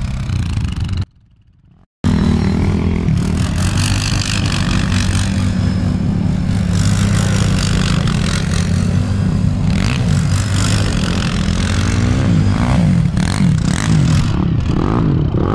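ATV engine running close by and revving, its pitch rising and falling as it is worked, cut by a brief drop to near silence about a second in.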